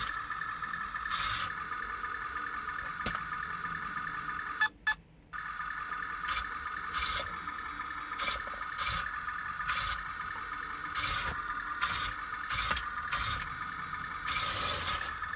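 Small electric drive motors of a mini radio-control toy tank whining steadily, with clicks and rattles from its gearbox and tracks. The whine stops for about half a second about five seconds in, then starts again. The tank is running again after its battery contact was bridged with tin foil.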